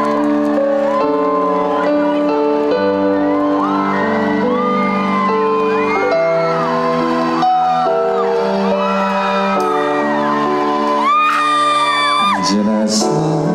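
Live stage music over a loudspeaker system: held chords that change every second or so under a wavering melody line, with the audience whooping.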